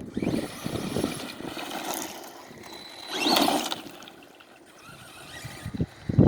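Redcat electric RC truck driving over dirt: motor whine and tyres scrabbling on loose ground, rising to a louder burst about three seconds in, then easing off.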